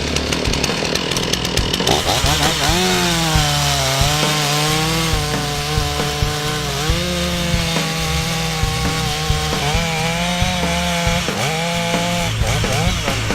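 STIHL chainsaw running at full throttle and cutting into a tree trunk to make the face cut for felling. Its engine pitch sags and recovers several times as the chain bites into the wood under load.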